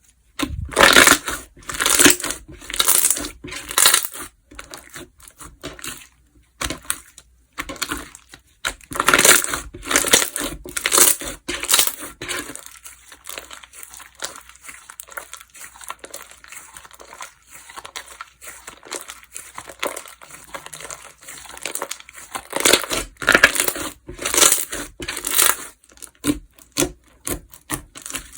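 Slime being squeezed and pressed by hand, giving dense runs of sharp pops and clicks; the handling goes quieter for about ten seconds in the middle, then turns loud again.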